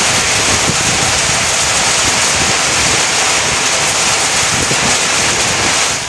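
Heavy rain falling steadily, with wind buffeting the microphone in a low, fluttering rumble; it cuts off abruptly near the end.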